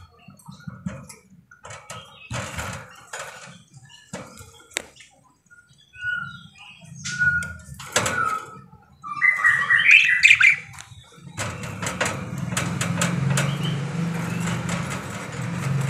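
Budgerigars chirping in short bursts among scattered clicks, with a louder run of chirps about ten seconds in. From about eleven seconds a steady rustling noise sets in under the birds.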